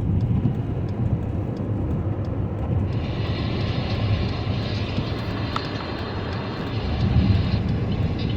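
Car cabin road noise: a steady low rumble of the moving car. About three seconds in, a steady hiss of the cabin heater fan starts blowing and runs for several seconds.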